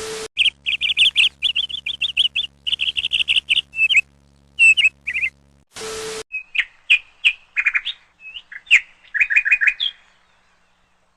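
Small birds chirping: quick runs of high, rapid chirps, then a second stretch of chirps and short calls after a brief burst of hiss with a low hum about halfway through.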